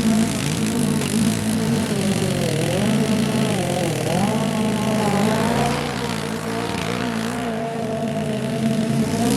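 Small petrol engine of a garden power tool running steadily, its speed dipping and rising again under load for a few seconds.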